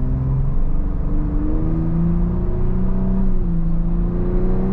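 2023 Ford Bronco Raptor's 3.0-litre EcoBoost V6 accelerating under part throttle, heard from inside the cabin with the exhaust in Baja mode. The engine note climbs, drops at an upshift a little over three seconds in, then climbs again.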